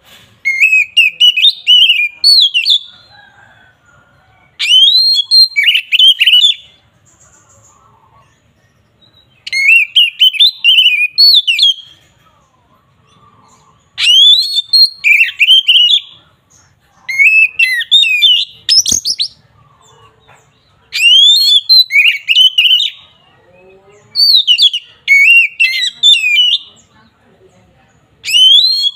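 Oriental magpie-robin (kacer) singing loud, varied phrases of sweeping whistles and rapid chattering notes. Each phrase lasts about two seconds and comes every four to five seconds, about eight in all. This is the full, aggressive song that bird keepers call ngeplong, the song of a male ready to fight.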